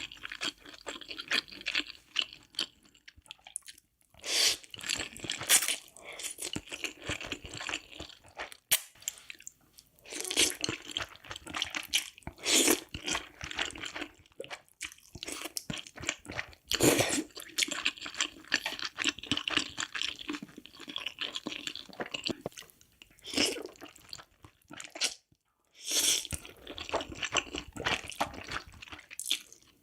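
Close-miked chewing of spicy fire noodles: wet, crunchy mouth sounds, with louder bursts every few seconds.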